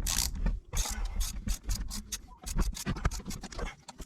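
Ratchet wrench clicking in quick strokes, backing out the 8 mm bolts that hold the side case on an ATV front differential.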